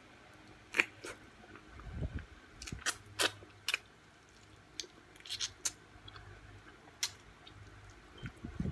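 Close mouth sounds of eating sauced chicken wings: scattered sharp wet clicks and smacks of chewing at irregular intervals, with a couple of soft low thumps.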